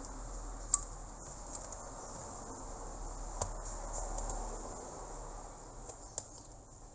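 A few light, sharp clicks and taps from handling a network switching hub as its case is opened up, about three times, over a steady high-pitched background hiss.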